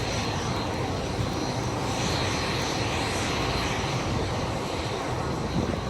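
Jet engine noise from Red Arrows BAE Hawk jets in flight, a steady rushing sound with a faint high whine.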